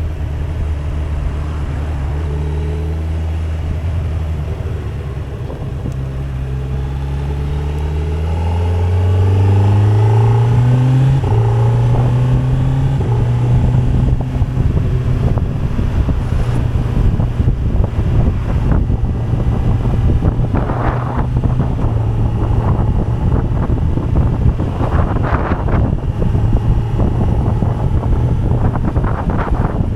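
Kawasaki Z900's inline-four engine under way, running steadily, then accelerating with its pitch rising from about six seconds in. About eleven seconds in the pitch breaks at a gear change, and the engine then holds steady revs to the end.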